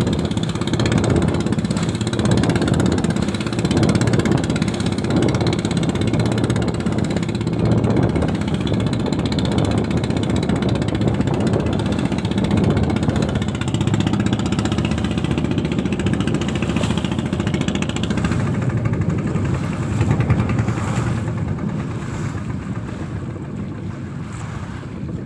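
Boat engine running steadily at sea, growing quieter over the last several seconds.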